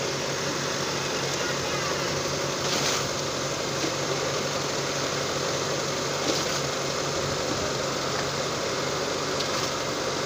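Car engine idling steadily, with the air-conditioning hooked up to manifold gauges for servicing. Two brief noises cut in, about three and six seconds in.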